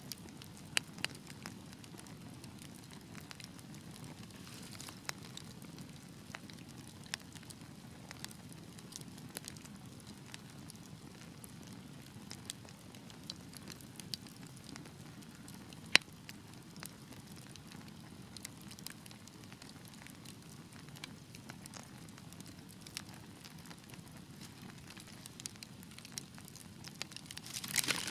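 Fireplace fire burning: a low, steady rumble of flames with scattered sharp pops and crackles. One loud pop comes about halfway through, and a flurry of louder crackling comes near the end.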